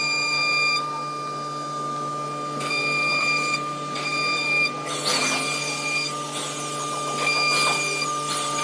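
Small power tool's motor whining at a steady high pitch, the whine dropping out and returning several times, with brief bursts of scraping as the tool works the material.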